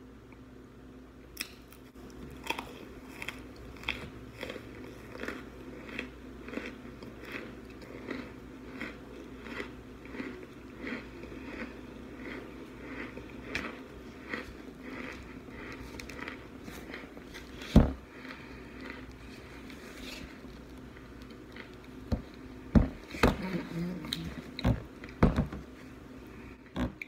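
Close-up crunching and chewing of frozen baked white chunks taken from the freezer, with a crisp crunch about one and a half times a second. Near the end come a few louder, sharper cracks.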